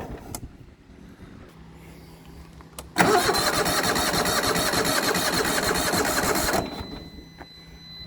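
Starter cranking the Yamaha YT6800 garden tractor's engine in one steady run of about three and a half seconds, starting about three seconds in, with a click just before; the engine turns over but does not catch.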